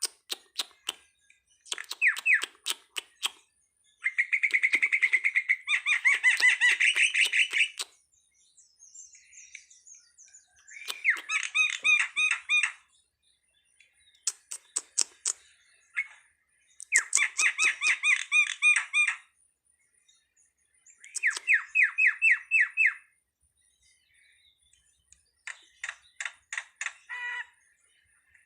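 Jalak (starling) calling in repeated bursts of rapid chattering notes, each burst about one to three seconds long with short pauses between, interspersed with sharp clicks.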